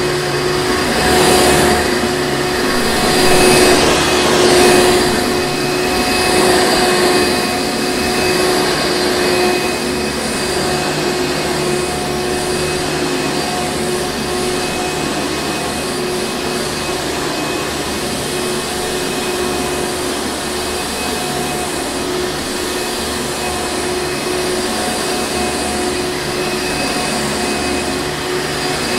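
Hoover Encore Supreme vacuum cleaner running steadily: a constant motor whine over rushing air. The air rush swells a few times during the first several seconds, then evens out.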